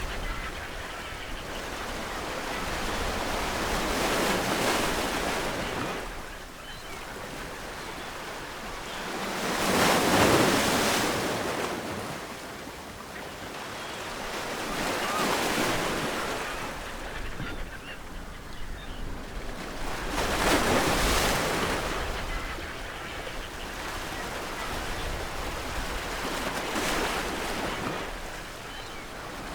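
Ocean waves breaking on a shore. The surf swells and fades about every five to six seconds, with the loudest waves about a third of the way in and again past two-thirds.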